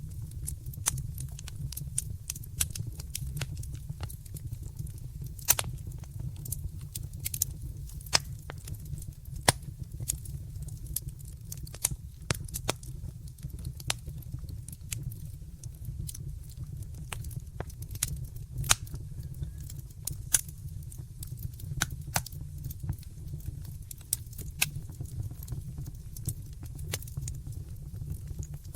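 Wood fire crackling in a fireplace: a steady low rumble of the flames with irregular sharp snaps and pops, a few louder pops standing out.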